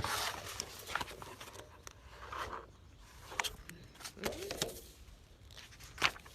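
Paper rustling and handling noise, typical of picture-book pages being turned, with a few sharp clicks. There is a brief rising-and-falling vocal sound about four seconds in.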